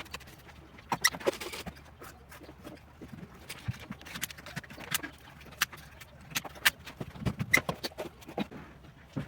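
Irregular sharp clicks and knocks, as of tiles and hand tools being handled and tapped during tiling work.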